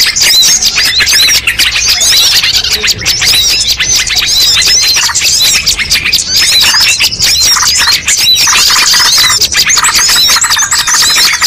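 A dense mixed chorus of many small songbirds calling over one another, with many rapid, overlapping high chirps, played as a bird-lure recording meant to draw in wild birds.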